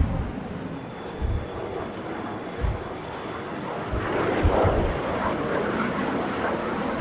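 Jet noise from the Blue Impulse team's Kawasaki T-4 jets, a steady rushing that swells about halfway through. Gusty wind buffets the microphone in short low thumps.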